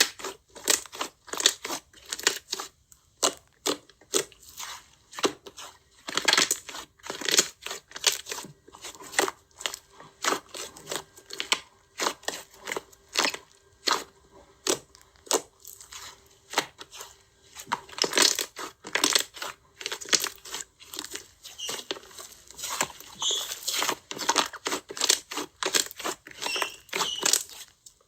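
Slime being squeezed and stretched by hand, giving dense, irregular crackling and popping, several sharp pops a second.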